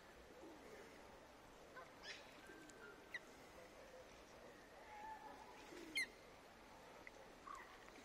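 Faint background of scattered short bird calls and chirps, the loudest a brief high call about six seconds in.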